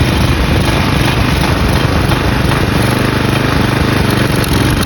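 Single-cylinder Briggs & Stratton flathead push-mower engine running steadily and loudly while sand and grit are fed into its carburetor intake. It keeps running despite the abuse.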